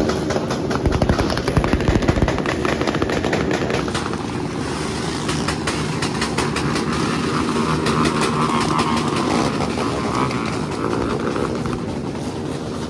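Motorcycle engine revving with a rapid crackle of exhaust pulses over the first few seconds, then running more steadily with changing pitch.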